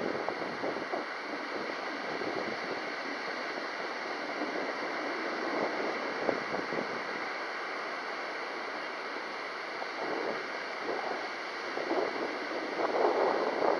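Strong, gusty wind buffeting the microphone, with louder gusts near the end.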